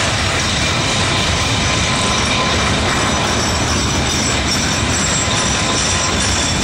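Freight cars of a long manifest train rolling past close by: a steady, loud rumble of steel wheels on rail, with faint high wheel squeal over it.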